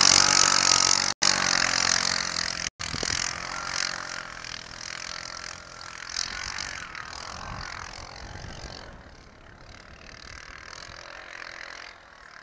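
ATV engine running, loud at first and then fading steadily, with two sudden brief cut-outs in the first few seconds.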